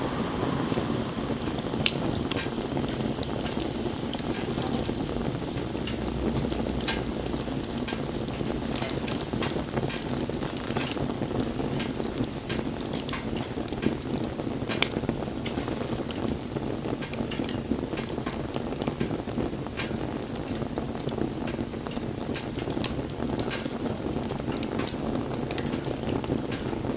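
Wood fire burning: frequent sharp crackles and pops over a steady low rushing of the flames, a few pops standing out louder.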